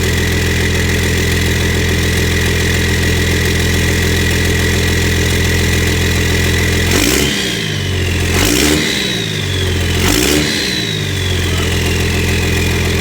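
Dodge Ram diesel truck engine idling through a newly fitted 4-inch MBRP stainless turbo-back exhaust, with a steady high turbo whistle. About halfway through it is revved three times in quick succession, and the turbo whistle sweeps down in pitch after the revs.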